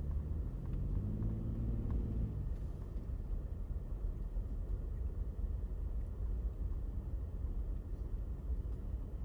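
Car driving, a steady low rumble of engine and road noise. In the first two seconds or so a pitched engine hum rises slightly, then drops away.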